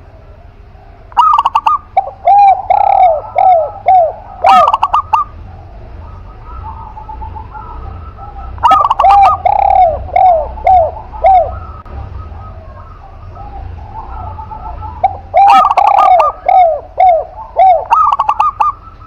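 Doves cooing in three bouts, each a run of repeated, arching coo notes lasting about three to four seconds, with a pause of a few seconds between bouts.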